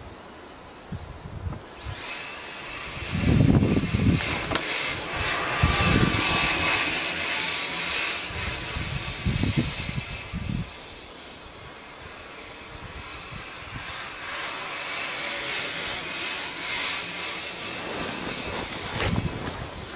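Electric RC snowcat with two brushless motors driving in snow: a steady motor whine over a broad hiss from the tracks, starting about two seconds in, louder for several seconds, easing off, then building again toward the end. A few low thumps are mixed in.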